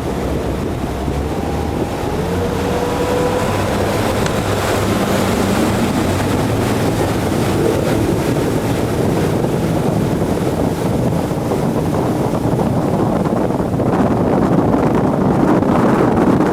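Mercury Verado 175 outboard on a center-console boat running at high speed, its pitch climbing in the first few seconds and then holding steady. Heavy wind buffets the microphone throughout, and the noise grows a little louder near the end.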